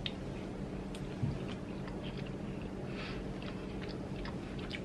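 A person chewing a mouthful of food: faint, irregular soft mouth clicks over a steady low hum.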